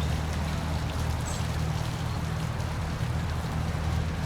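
Steady rushing of falling water from a waterfall, with a deep low rumble under it.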